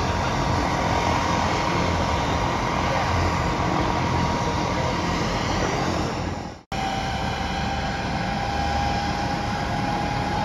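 Helicopter running close by: a steady engine whine over dense rotor and engine noise. About two-thirds of the way through, the sound fades and drops out for an instant, then comes straight back with the whine a little lower and slowly rising.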